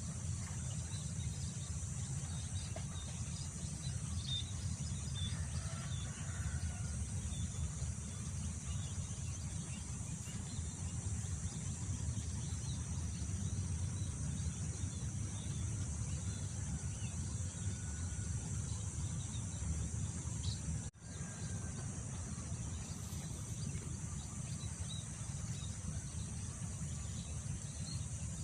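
Outdoor field ambience: a steady high insect chorus over a low rumble of wind on the microphone, with scattered faint bird chirps. The sound cuts out for an instant about three-quarters of the way through.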